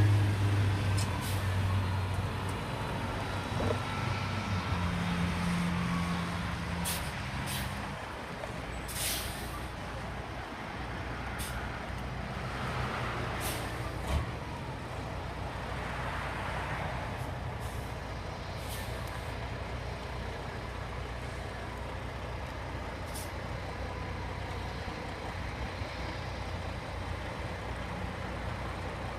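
Peterbilt day-cab truck's diesel engine pulling away, growing fainter over the first ten seconds, with several short air-brake hisses.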